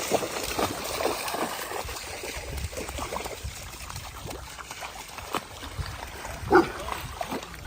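Flowing water with irregular splashing as dogs wade through it, and one short, louder sound about six and a half seconds in.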